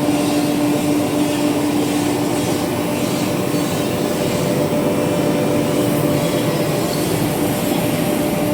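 Woodworking CNC router running: a steady whine over a constant rush of machine noise.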